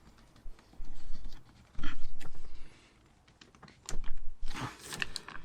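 Hands working at a plastic trim catch: a series of sharp clicks and knocks with rustling handling noise, in three short spells.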